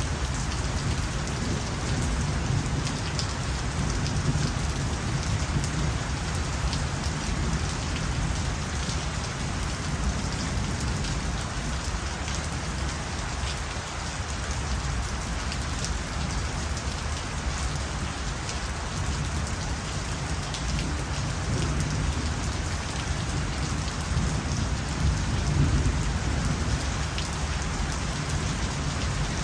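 Steady heavy night rain, with a dense patter of individual drops over a continuous wash and a low rumble underneath that swells slightly near the end.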